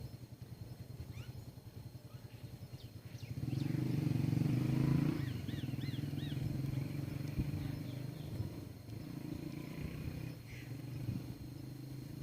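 A low, steady humming rumble that gets louder about three seconds in and holds, with a few brief high chirps from small birds over it.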